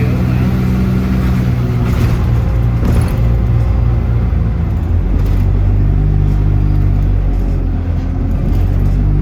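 City bus engine and road noise: a loud, steady low drone, with a few brief rattles.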